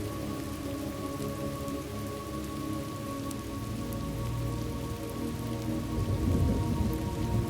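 Steady rain with a low thunder rumble that swells about two-thirds of the way in and peaks near the end, over a faint steady sustained tone.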